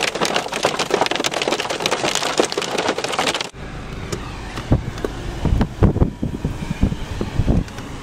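A dense crackling patter of many small sharp hits for about three and a half seconds, like rain or hail striking a vehicle, then an abrupt switch to storm wind rumbling and gusting on the microphone with occasional thumps.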